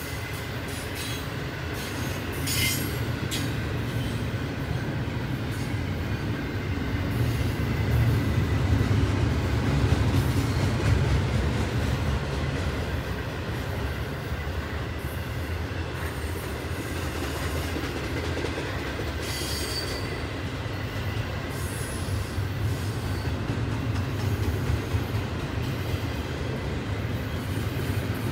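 Double-stack intermodal freight cars rolling past on welded rail: a steady low rumble of steel wheels on the track, with a few short clanks and occasional thin, high wheel squeals.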